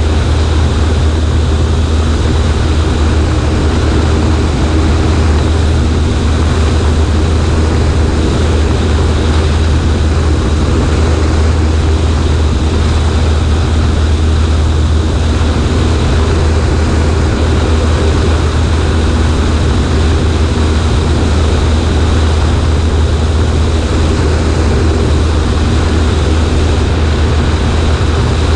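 Cessna 140A's engine and propeller droning steadily in flight, heard from out on the right wing, with no change in engine speed.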